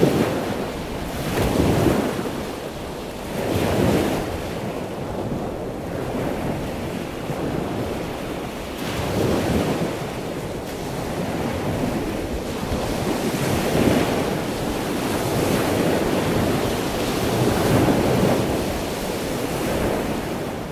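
Water noise like surf, a steady wash that swells and fades every two to four seconds.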